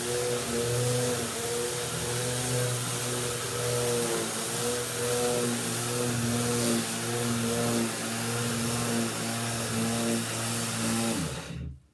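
Vacuum cleaner running steadily with a motor hum and rushing air, then switched off about eleven seconds in, its motor winding down in pitch.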